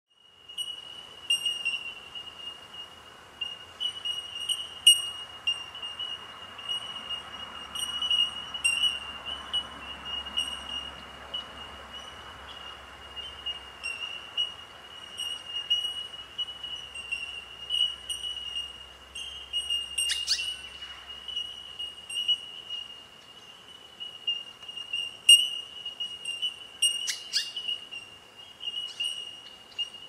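Bell miners (Australian bellbirds) calling: many short, ringing, bell-like pings at one high pitch, overlapping into an almost unbroken tinkling chorus. Two brief, harsher, louder sounds break through, one about two-thirds of the way in and one near the end.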